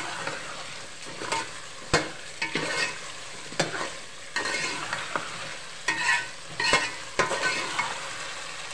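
Potatoes and spice masala frying and sizzling in an aluminium pot while a spoon stirs them, scraping and knocking against the pot about once or twice a second. This is the bhuna stage of a curry, the masala being fried down with the potatoes.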